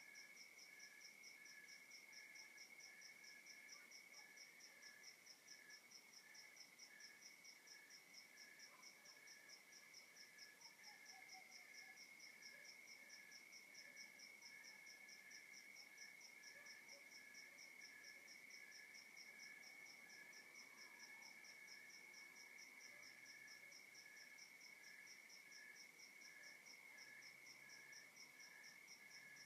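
Faint chorus of night insects, crickets among them: one unbroken high trill layered with fast, even pulsing chirps from other callers. Occasional faint short calls sound lower down.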